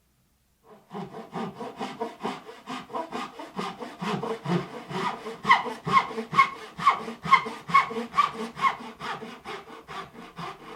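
Hand saw cutting wood with steady back-and-forth strokes, about two a second, starting about a second in.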